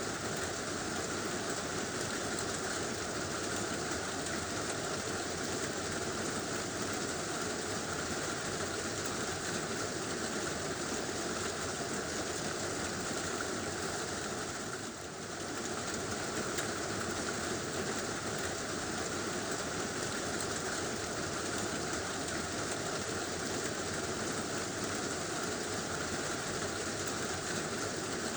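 Heavy rain drumming steadily on a tin roof, easing briefly about halfway through.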